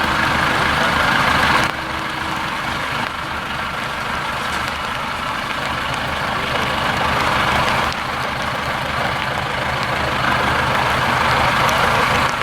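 IFA W50 truck's four-cylinder diesel engine running under load on the trial course, with the engine note easing off suddenly about two seconds in and again about eight seconds in, then building up again.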